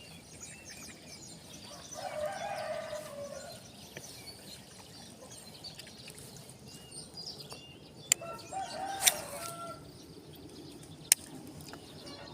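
A rooster crowing twice, about two seconds in and again about eight seconds in, over steady chirping of small birds. A few sharp clicks come near the end.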